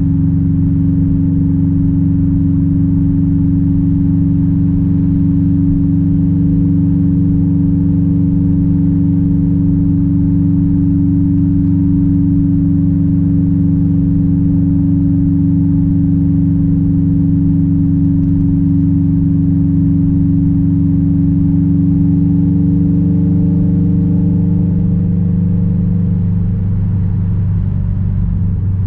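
Straight-piped 2006 Subaru WRX STI's turbocharged 2.5-litre flat-four droning at a steady cruise, its pitch holding level. Near the end the note eases off a little.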